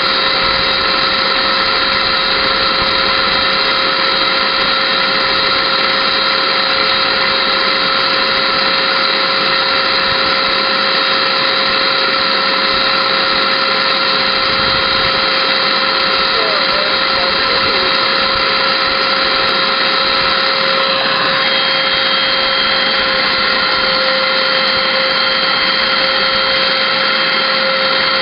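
Small Hoover vacuum cleaner's motor running steadily with a whine, while mineral spirits poured into it are blown out as vapour. The whine's pitch shifts slightly about 21 seconds in.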